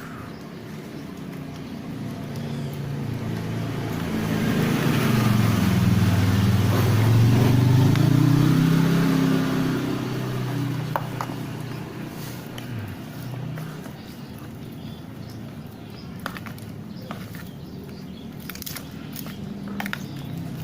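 A motor vehicle's engine passing by, growing louder over several seconds and then fading away.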